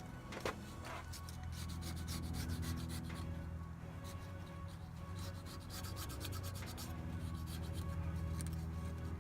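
Razor blade scraping old gasket material off a metal sealing surface at the thermostat housing, in quick, irregular repeated strokes over a steady low hum.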